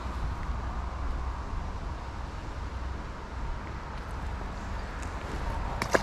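Steady outdoor background noise with a low rumble, and a couple of sharp clicks near the end.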